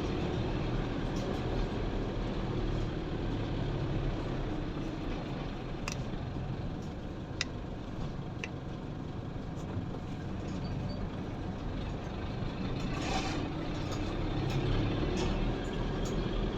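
Vehicle engines, trucks among them, running in slow, tight traffic: a steady low rumble with a few short clicks near the middle.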